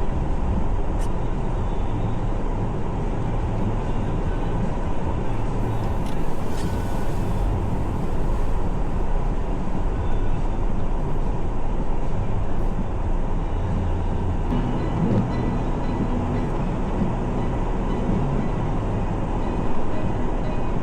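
Vehicle being driven, a steady low rumble of engine and tyres.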